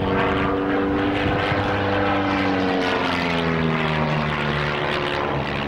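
Propeller-driven Pitts S-2B aerobatic biplanes flying past. The steady engine drone drops in pitch about halfway through as they go by.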